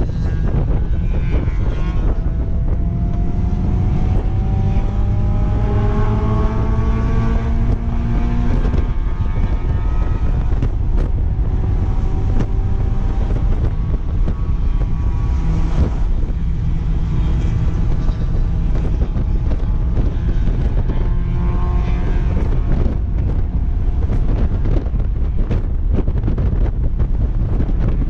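Mazda Miata's four-cylinder engine pulling hard through a lap, heard from inside the open-top cabin with heavy wind buffeting on the microphone. The engine note climbs steadily for several seconds, drops sharply at a gear change about nine seconds in, and climbs again later.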